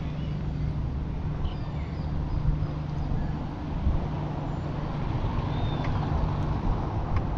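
Outdoor ambience: a steady low rumble of distant road traffic, with a few faint bird chirps over it.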